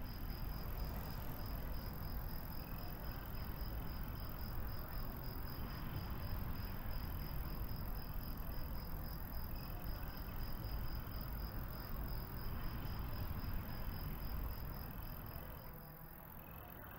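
Insect trilling in a steady, fast pulsing tone, with fainter trills coming and going below it, over a low rumbling noise. The main trill stops about a second before the end.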